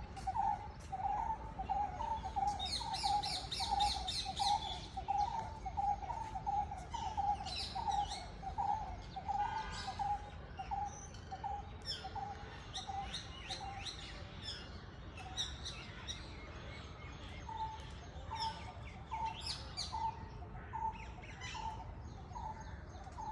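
Several birds calling together: one bird repeats a low note about twice a second, stopping for a few seconds past the middle and then resuming, while other birds add high chirps, whistles and a short rapid trill.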